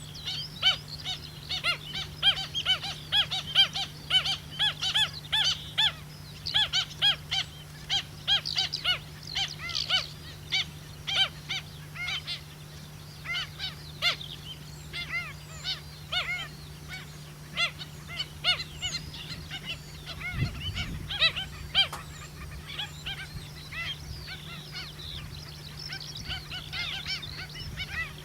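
Pied stilt calling: short, sharp calls repeated several times a second, thinning out after about twelve seconds.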